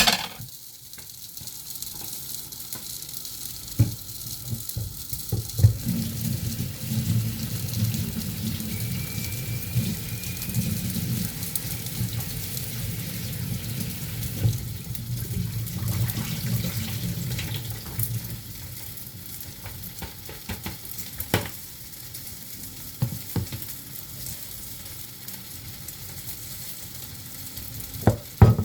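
Food sizzling as it fries in a pan, with occasional sharp knocks of a utensil against the pan. A low hum runs underneath for a stretch in the middle.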